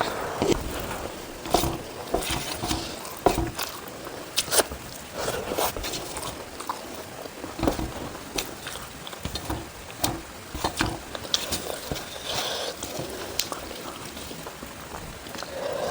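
A person chewing food close to the microphone: irregular wet smacks and clicks of the mouth, a few every second.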